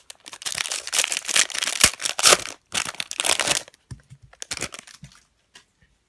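A football card pack's wrapper being torn open and crinkled for about three and a half seconds, then a few softer rustles as the cards are handled.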